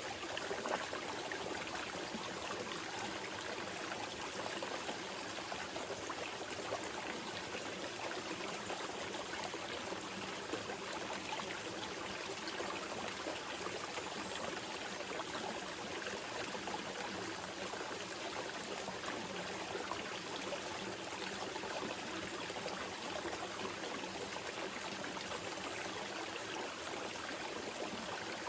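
Small mountain river flowing over rocks, a steady rush with constant trickling and babbling.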